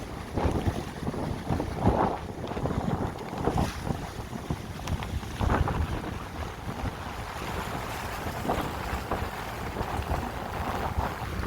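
Wind buffeting the microphone on a moving boat, coming in uneven gusts over the sound of water rushing past the hull.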